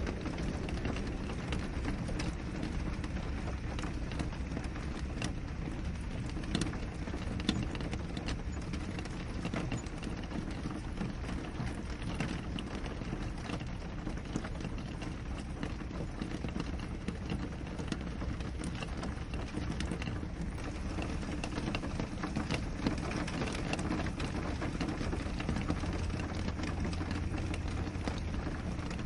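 Steady rain falling on a window pane, with many small drops tapping over a constant low rush.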